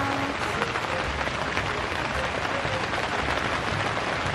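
Heavy rain pattering steadily on the Bundok Solo Base EX tent, heard from inside: a dense, even hiss of countless small drops.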